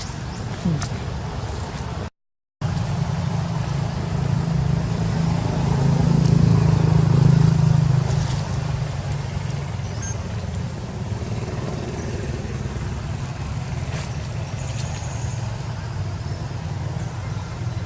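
A motor vehicle's engine running with a steady low hum that grows louder for a couple of seconds near the middle, as if passing close. The audio drops out completely for half a second about two seconds in.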